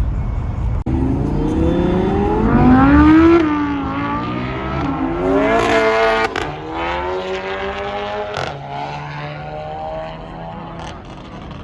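A car engine revving hard as the car accelerates past: the pitch climbs for about two seconds, drops at a gear change, climbs again, then holds lower and fades as the car pulls away.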